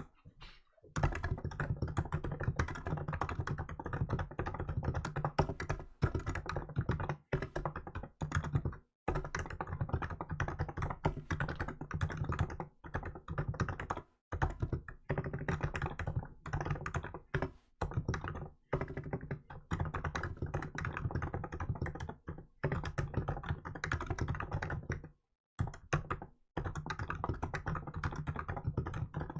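Fast, continuous typing on a Hansung GK868B electrostatic-capacitive (Topre-style) keyboard with milk keycaps. The keystrokes come in steady runs broken by a few brief pauses.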